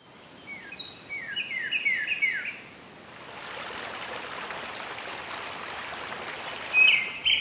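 Songbirds singing: quick, repeated, falling chirps. The chirps give way to a few seconds of steady rushing noise, and the birdsong returns loudly near the end.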